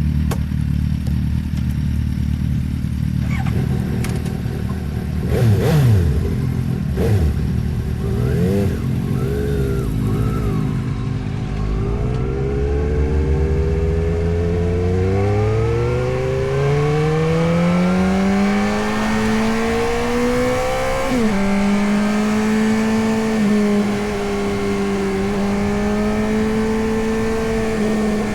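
Suzuki GSX-S750 inline-four engine at low revs with a few clunks, then pulling away, its pitch climbing steadily for about ten seconds. An upshift about two-thirds of the way through drops the revs, and the engine then cruises steadily under wind noise.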